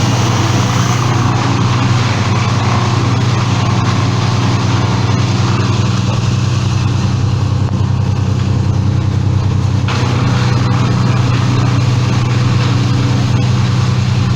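An engine running steadily at one constant speed, a loud, even low hum.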